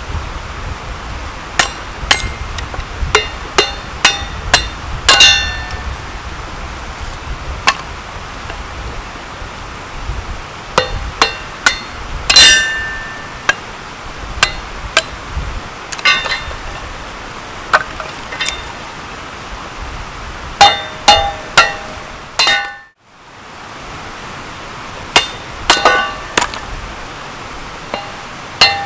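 Hammer blows driving wood down onto a Kindling Cracker's cast-iron blade to split kindling: a series of sharp, irregularly spaced knocks, some with a short metallic ring. The sound drops out briefly about two-thirds of the way through.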